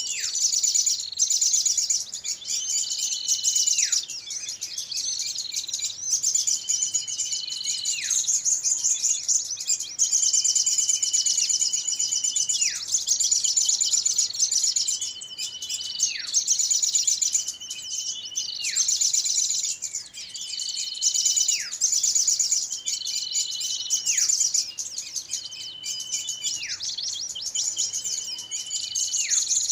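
Bird-lure recording of many small birds chirping together in a dense, high chatter. Over it, a whistled call repeats every two to three seconds: a short held note that drops sharply in pitch at its end.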